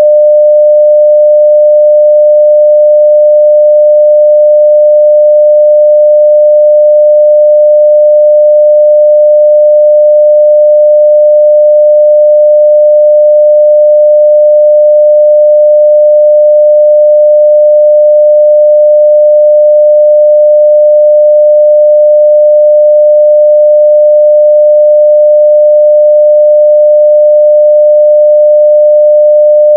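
A 600 Hz sine-wave test tone at 0 dB, one pure pitch held steady and loud without any change.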